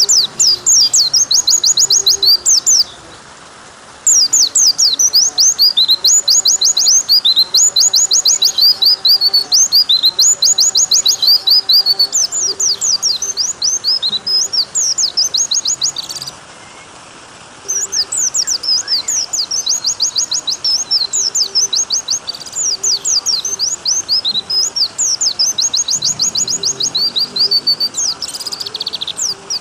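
White-eye (pleci) song: fast, high trills repeated in bursts of a second or two over a steady rush of running water. The sound drops out briefly twice, about 3 seconds in and about 16 seconds in.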